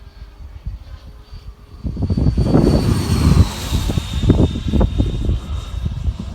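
Electric ducted-fan model jet whining past overhead, its high whine swelling and dropping in pitch as it goes by. Heavy wind buffets the microphone through the second half.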